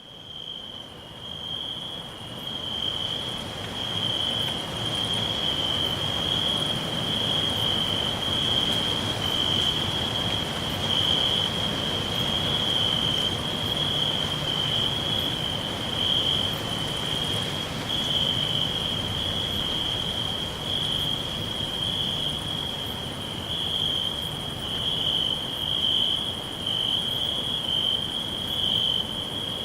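Crickets trilling continuously on one high, steady note, fading in over the first few seconds.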